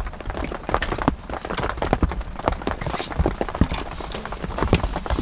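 Rain falling close by: dense, irregular drops ticking and knocking on nearby surfaces, some much louder than others, over a low rumble.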